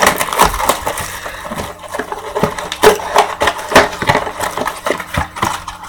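Cardboard trading-card boxes being torn open and the packs inside pulled out and handled, a dense run of irregular crackles and scrapes.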